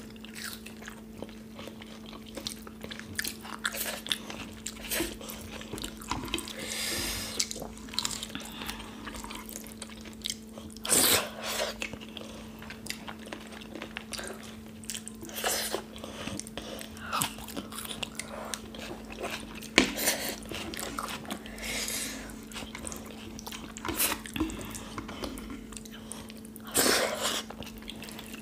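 Close-up eating sounds of people chewing rice soaked in kadhi eaten by hand: wet chewing, lip smacks and short mouth clicks, with a few louder smacks or slurps. A steady low hum runs underneath.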